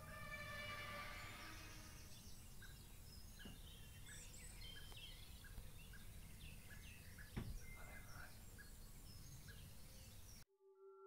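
A droning, trumpet-like sound in the sky, several steady tones together, fades away over the first two seconds. Outdoor ambience follows: a low rumble, birds chirping, a short call repeating about twice a second, and two knocks, the second the loudest. Near the end it cuts to soft, steady electronic tones.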